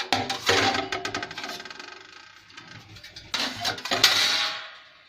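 Metal parts of a distillation still clattering and rattling as they are handled and fitted together, in two bouts, the second about three seconds in.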